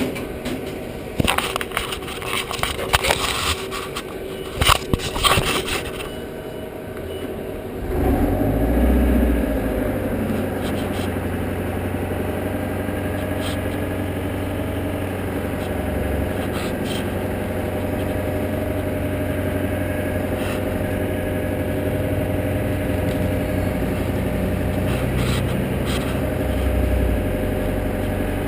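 Handling noises, scraping and clicking, for the first few seconds. Then an engine starts about eight seconds in and idles steadily.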